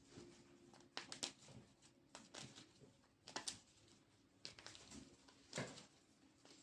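Faint, scattered rustles and light taps of tarot cards being handled, about half a dozen short sounds over a few seconds in a quiet room.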